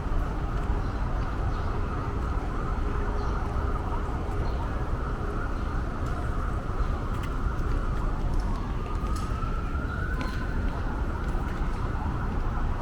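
An emergency-vehicle siren wails over a steady rumble of city street traffic, its pitch sweeping up again about nine seconds in.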